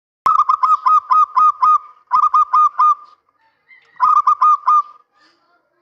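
Male zebra dove cooing in three quick bursts of short staccato notes. The first burst has about seven notes and the next two have about four each.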